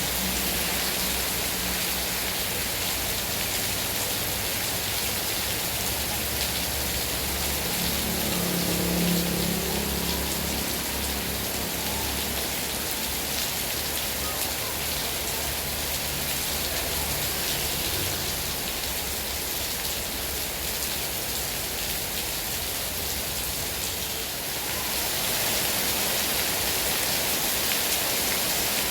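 Heavy rain falling steadily, an even hiss of many drops, with a short low sound about nine seconds in and the rain growing slightly louder near the end.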